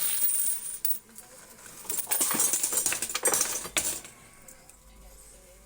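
Quarters clinking and clattering in a coin-pusher game: two spells of quick metallic chinking about a second apart, dying down near the end.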